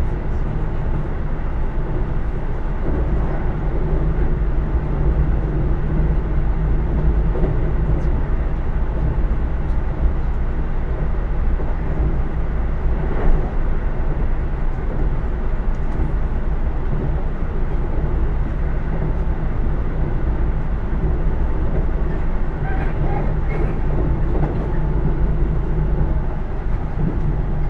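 Keisei AE100 series electric train heard from inside a passenger car: the steady rumble of wheels and running gear, with a few faint clicks.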